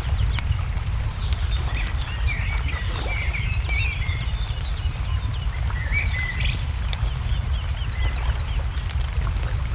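Wood fire crackling with scattered sharp pops, while small birds chirp and twitter, over a steady low rumble.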